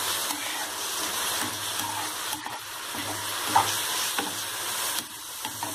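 Boondi sabzi sizzling in a frying pan over a full gas flame as the boondi soaks up the last of the water, while a silicone spatula stirs through it with a few light scrapes against the pan.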